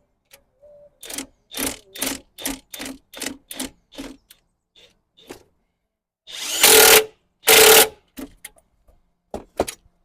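A fastener on a BMW N13 engine is being tightened. First comes a run of about eight short strokes, roughly two to three a second. Then a power tool gives two loud half-second bursts, each starting and stopping abruptly, and these are the loudest sounds.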